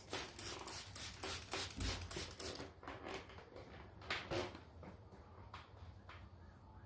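Trigger spray bottle squirting soapy water onto a truck windshield in a quick run of sprays, about five or six a second, followed by a few scattered sprays that trail off.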